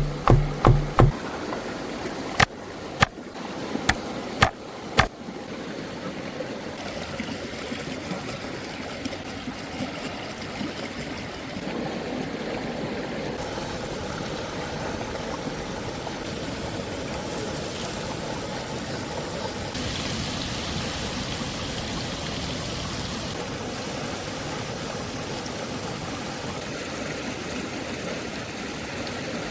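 A few sharp clicks in the first five seconds, then a steady rushing, hissing noise like running water that goes on unbroken.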